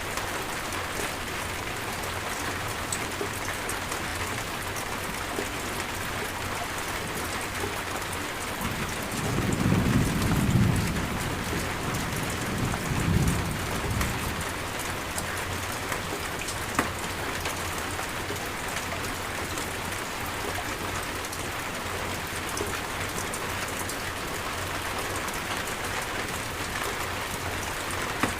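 Steady rain falling, with a low roll of thunder building about nine seconds in and rumbling for around five seconds, swelling twice before it fades back under the rain.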